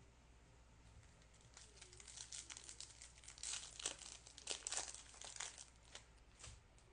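Foil trading-card pack wrapper crinkling as it is torn open and handled, a faint run of crackles from about a second and a half in until near the end.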